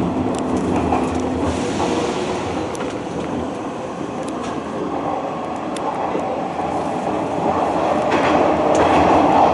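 Hanshin Railway commuter train running, heard from inside the car: steady wheel-and-rail rumble with scattered clicks over rail joints. A steady hum stops about a second and a half in, and the running noise swells near the end.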